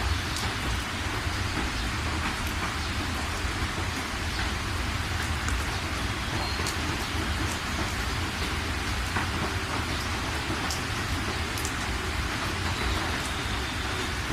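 Steady rain falling, with scattered sharp drops striking a surface, over a steady low rumble.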